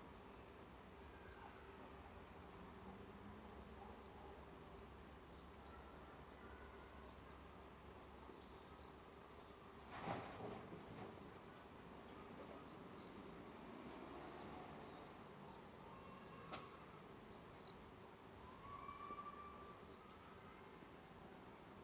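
Many small birds chirping faintly, short high chirps repeating irregularly over a low steady background hum. A soft thump about halfway through and a sharp click a few seconds later.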